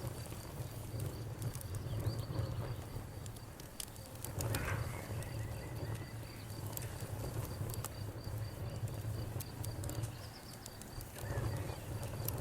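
Campfire crackling with scattered sharp pops, over a fast, steady pulsing chirp of crickets and a constant low rumble.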